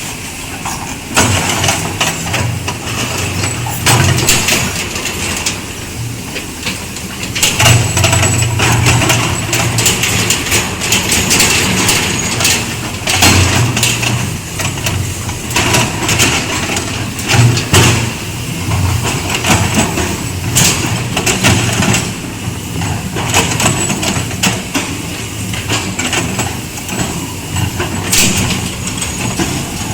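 Diesel engine of a backhoe excavator working, its strength rising and falling as the hydraulics are loaded, with scattered sharp clanks and knocks from the bucket and arm at work.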